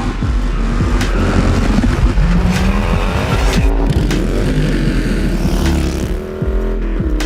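Motorcycle engines revving and accelerating, their pitch rising and falling.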